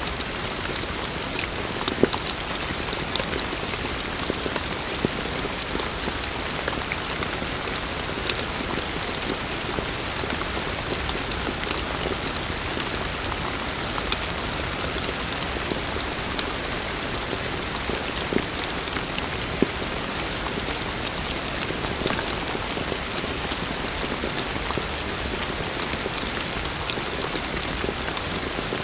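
Heavy rain falling steadily, a dense even hiss with scattered louder drops landing close by, a few of them sharper, at about two seconds and near the three-quarter mark.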